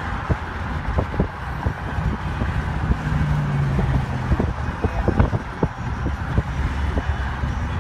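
A car driving, heard from inside: a steady low road and engine rumble with scattered sharp taps.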